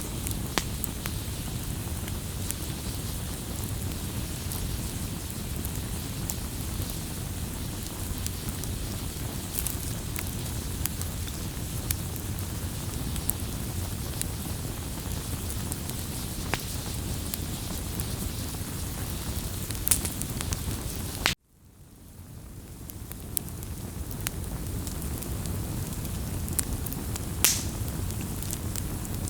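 Wood campfire burning: a steady low rush of flames with scattered sharp crackles and pops. About two-thirds of the way through, the sound cuts out abruptly and fades back in over a couple of seconds.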